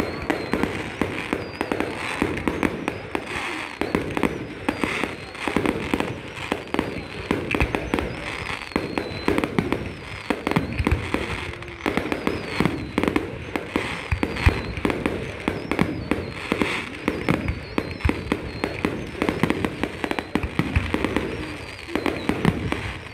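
Fireworks display going off without a break: a dense, continuous run of bangs and crackles from bursting shells.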